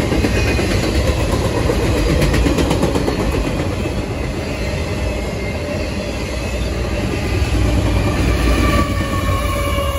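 Freight train of autorack cars rolling past at speed: a steady rumble and rattle of steel wheels on the rails, with a brief clatter of clicks a couple of seconds in. Faint high wheel squeal creeps in near the end.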